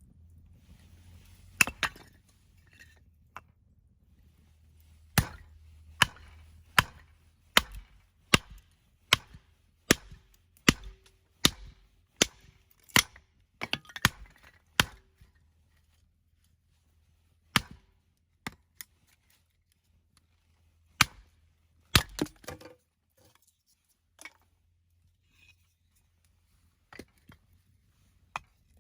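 Firewood being split with an axe: sharp wooden chops and cracks, a quick run of about a dozen strikes less than a second apart, then slower scattered strikes and knocks of split pieces.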